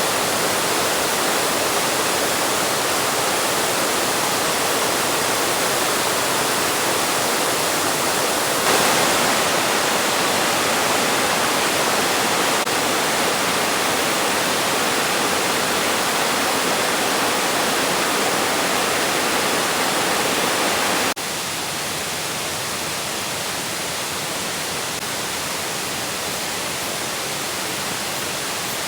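Waterfall rushing, a steady, even wash of falling water; it gets louder about nine seconds in and drops back about twenty-one seconds in.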